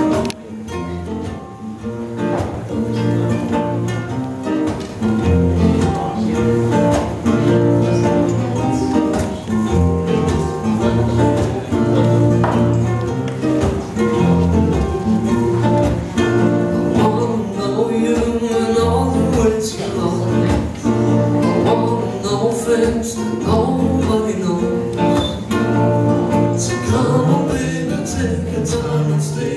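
Instrumental intro played live on two acoustic guitars and a ukulele, strummed chords in a steady rhythm.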